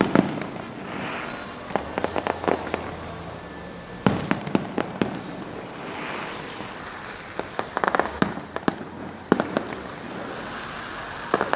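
Fireworks going off: sharp bangs and crackles come in clusters every second or two over a steady crackling hiss.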